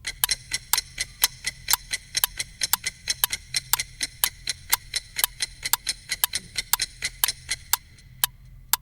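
A clock ticking: a fast, even run of sharp ticks, about five a second, thinning out near the end.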